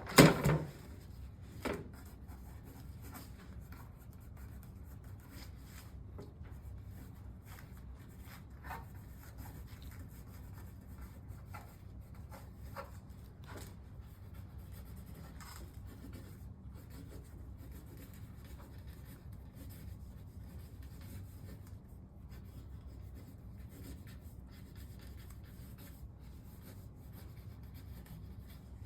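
Faint, intermittent scratching of a pen writing on paper, in short scattered strokes. A brief loud noise comes right at the start, with a smaller one just under two seconds in.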